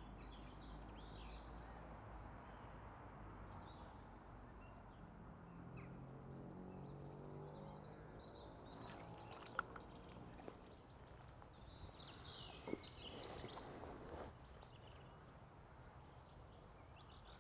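Faint outdoor quiet with small birds chirping and twittering now and then over a soft steady hush, and a couple of faint clicks in the second half.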